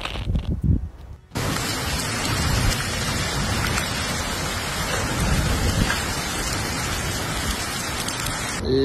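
Gusty wind buffeting the microphone, then about a second in an abrupt cut to a heavy storm downpour: a dense, steady hiss of precipitation striking surfaces.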